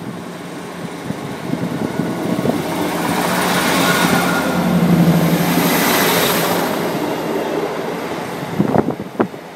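Class 158 diesel multiple unit moving past on the tracks. Its noise builds to a peak about halfway through, with a steady low engine hum, then fades. A few sharp clicks come near the end.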